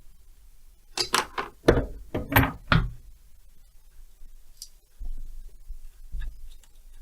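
Knocks and clatters from tools and chainsaw parts being handled during disassembly: a run of sharp knocks for about two seconds, then a few fainter ones.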